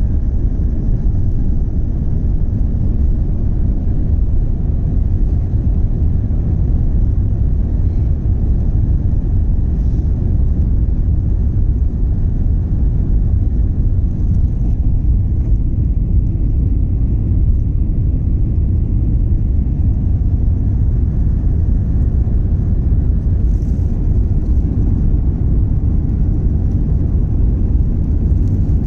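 Steady low rumble of an Airbus A350-900's jet engines and airflow heard inside the cabin, unchanging throughout.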